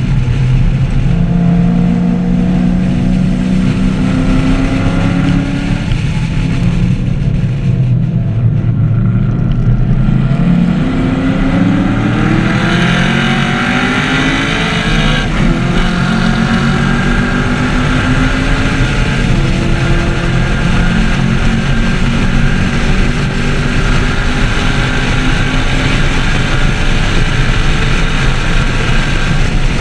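2014 Camaro 1LE's V8 engine under hard acceleration on track, its pitch climbing for several seconds, dropping back around six seconds in as the throttle eases, then sweeping steeply up again about ten seconds in before running at a high, fairly steady pitch.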